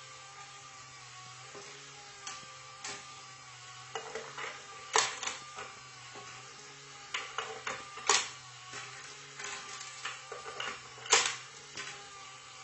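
A handful of sharp clicks and clinks, like small hard objects knocking together, scattered irregularly over a steady low hum.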